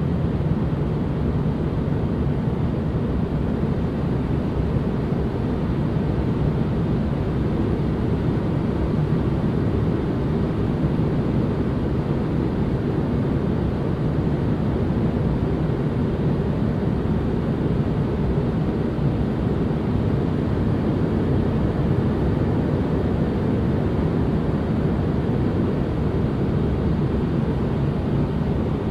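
Steady white-noise ambience, a deep, even rush weighted toward the low end, with no changes or breaks.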